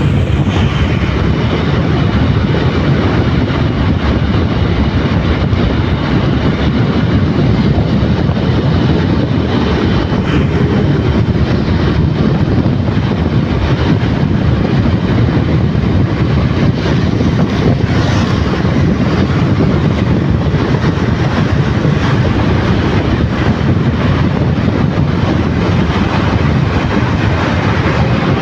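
Motorcycle riding at a steady speed: a loud, steady rush of wind and engine noise.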